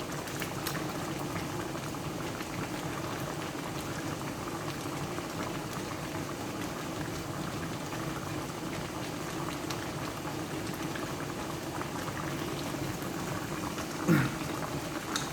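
Chicken adobo simmering in its soy-vinegar sauce, bubbling steadily in the pan as the sauce reduces and thickens. A brief louder sound comes near the end.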